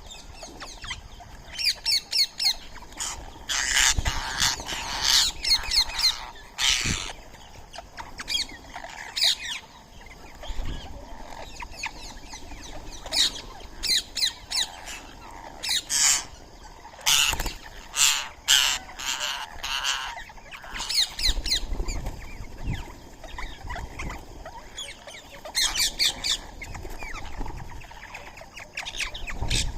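Indian ringneck (rose-ringed) parakeets squawking, with many short harsh calls in quick clusters throughout.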